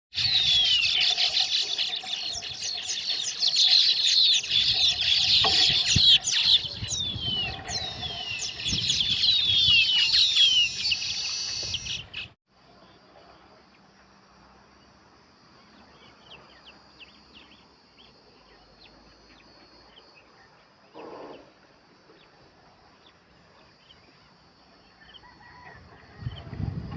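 A colony of weaver birds chattering loudly, a dense mass of quick, high, falling chirps. About twelve seconds in it cuts off suddenly, leaving only faint scattered chirps over a steady high hiss.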